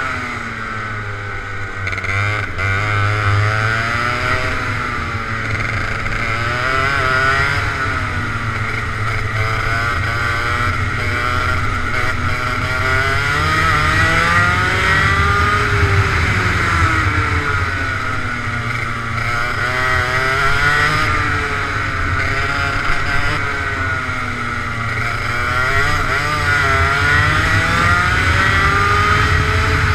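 Racing kart engine revving, its pitch rising and falling over and over every few seconds.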